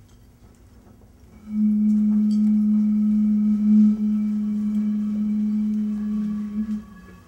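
A steady low humming tone starts about a second and a half in, holds for about five seconds, and fades out near the end.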